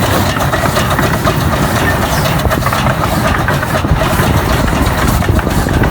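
A steady, loud mechanical rumble, like an engine or vehicle running continuously.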